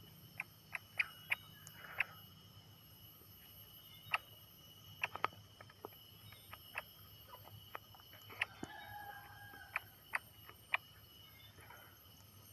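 Greater green leafbird (cucak ijo) making scattered sharp ticks, about fifteen in all, with one brief two-tone call about eight and a half seconds in. A faint steady high whine runs underneath.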